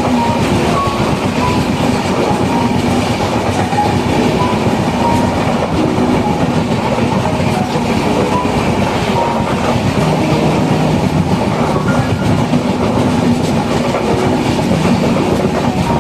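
Express passenger train running on the track: a steady, loud noise of wheels on rails that holds throughout.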